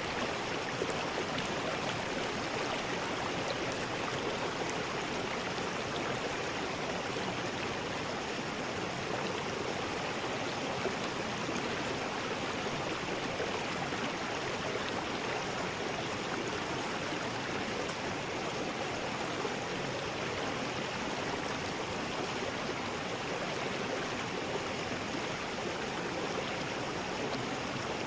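River rapids: water rushing steadily over rocks, an even, unbroken rush.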